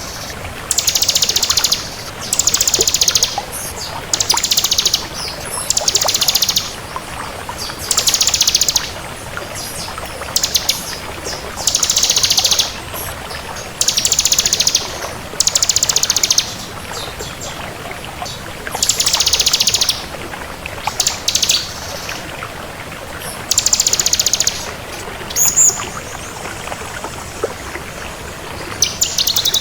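Ciblek kristal (bar-winged prinia) singing: high, very rapid trilled phrases about a second long, repeated roughly every two seconds over a steady hiss.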